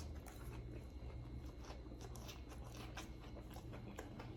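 Faint chewing and mouth sounds close to the microphone, a scatter of small wet clicks and crunches over a steady low hum.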